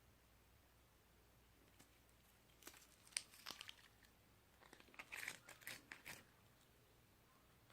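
Pill slime being handled, giving faint crinkly crackles and pops in two bursts, one about three seconds in and a longer one about five to six seconds in.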